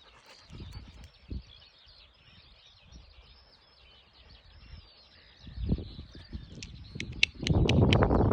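Small birds chirping steadily in the background, with scattered low thuds and, near the end, a cluster of sharp clicks followed by a louder rough rustling noise.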